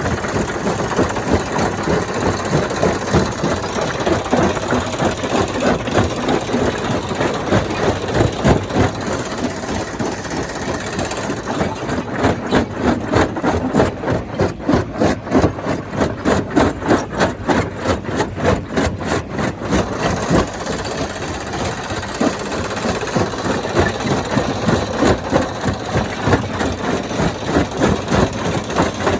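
Stone crusher plant running, engine-driven machinery with a continuous loud mechanical sound that pulses in a fast, even rhythm.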